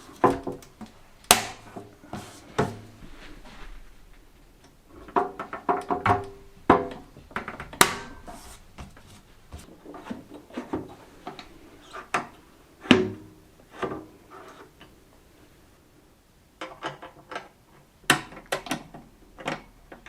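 Metal parts and tools clinking and knocking on a workbench in irregular strikes, several leaving a short metallic ring, during work on a vintage heater box and fan.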